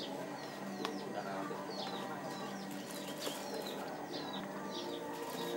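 Small birds chirping busily, short falling chirps several times a second, with a couple of sharp clicks and a steady low hum beneath.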